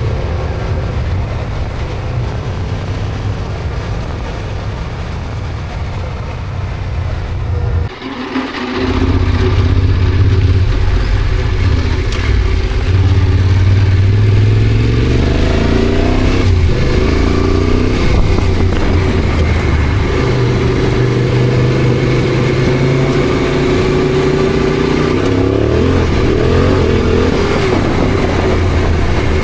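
Yamaha Ténéré adventure motorcycle engine running on the move, dropping briefly about eight seconds in and then running louder, with the engine pitch rising twice as it accelerates.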